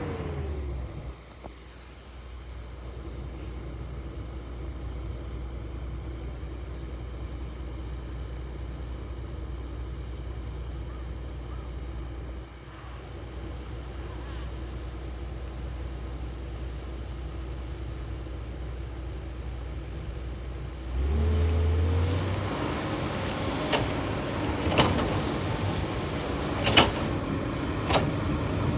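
Excavator's diesel engine running steadily at low revs, then revving up with a rising pitch about 21 seconds in, followed by several sharp knocks near the end.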